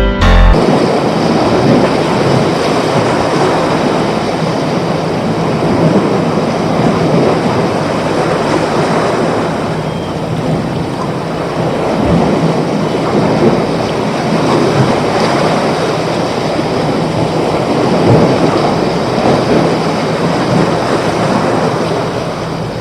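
Continuous rushing water: a dense, steady wash that swells and eases slightly.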